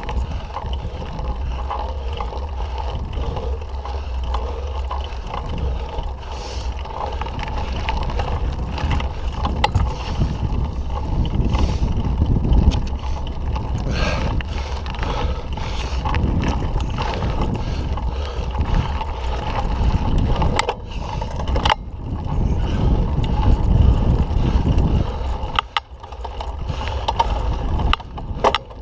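Mountain bike in motion on a dirt trail: steady wind rumble on the microphone with irregular rattling and clicking from the bike.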